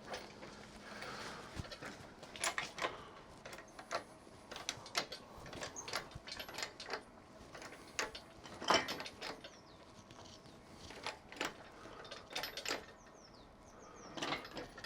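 Irregular clicks and knocks of metal car parts and tools being handled and worked into place, with the loudest knock a little under nine seconds in.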